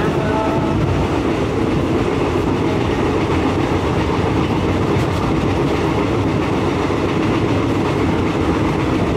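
Steady running noise of a moving train heard from on board: wheels rumbling on the rails.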